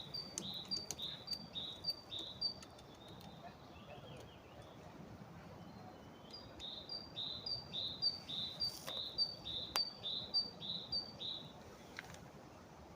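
A small bird singing a repeated high two-note phrase, about two phrases a second, in two runs: one at the start lasting a couple of seconds, and a longer one from about six seconds in to about eleven. A few isolated sharp taps are heard between.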